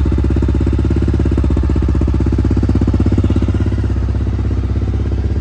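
Kawasaki KLR650 single-cylinder motorcycle engine running steadily, with a fast, even pulsing beat.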